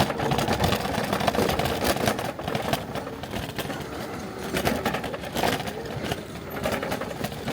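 Scooter running along a rough path: a continuous mechanical run with irregular rattles and knocks.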